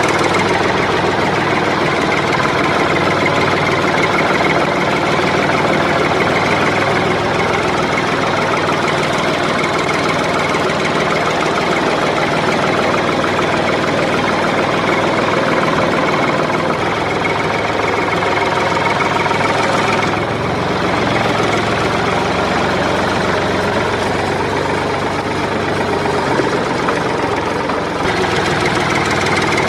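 An engine running steadily throughout, dipping briefly in level about twenty and twenty-eight seconds in.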